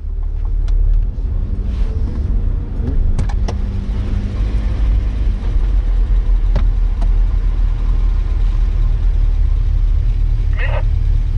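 Porsche 924's 2.0-litre four-cylinder engine running steadily at low revs, heard from inside the car, with a few scattered sharp clicks.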